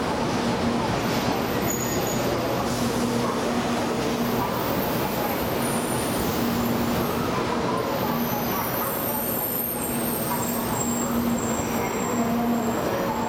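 700 Series Shinkansen train running in along the platform as it arrives, a steady rumble of wheels and running gear with faint high whistling tones over it.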